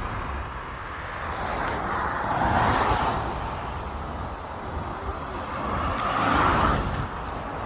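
Road traffic heard from a moving bicycle: a steady low wind rumble on the microphone, with two swells of tyre-and-engine noise as vehicles pass, one about two and a half seconds in and another about six and a half seconds in.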